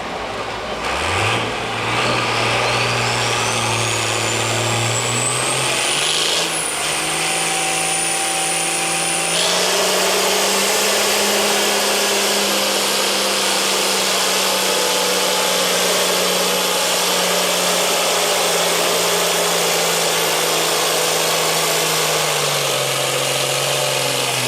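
Diesel pulling tractor's engine under full load on a pull: it revs up in steps over the first ten seconds, holds at high revs, and drops back near the end. A thin high whine climbs over the first several seconds and stays up with the engine.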